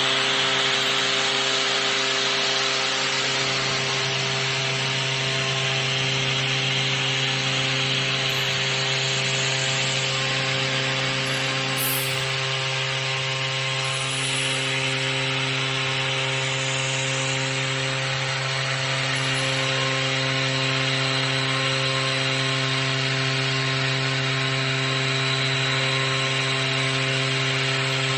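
Tomahawk Pro CNC machine's spindle running at a steady speed while the cutter mills a plate: a constant machine hum with a steady hiss of cutting.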